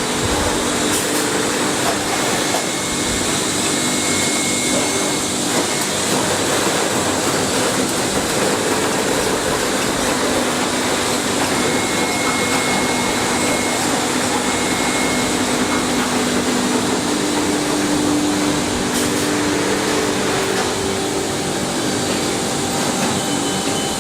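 Steady running noise of factory production-line machinery, an even mechanical hiss and hum with faint steady tones that come and go.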